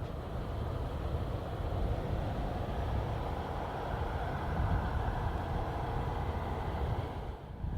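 Boeing 767 jet engines running: a steady low rumble with a hiss above it, which drops briefly near the end.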